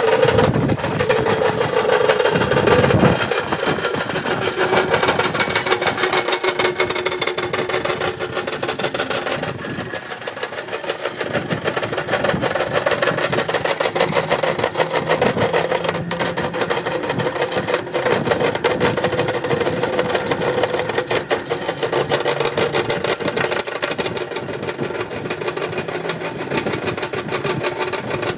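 Motor-driven cutting machine running steadily and cutting into a refrigerator compressor's steel shell, with a steady motor hum under a fast, even rattle.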